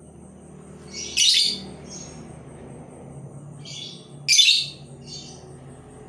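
A labet decoy bird calling in short, harsh, high chirps: two loud calls, about a second in and about four seconds in, each followed or led by a softer, shorter note.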